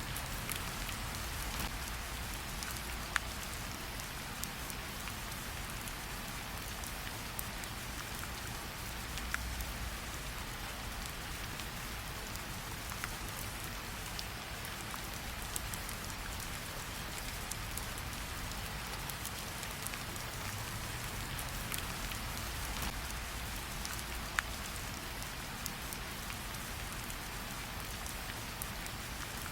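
Steady rain falling, an even hiss with a low rumble beneath, with a few sharp pops or clicks scattered through it every few seconds.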